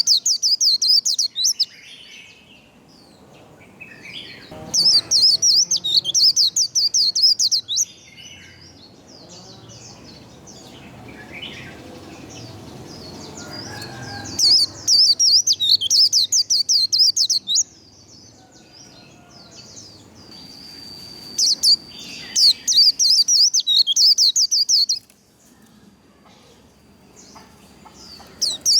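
White-eye (vành khuyên) singing its rapid, high, twittering 'líu' song in loud bursts of about three seconds, five times over, with fainter calls in between.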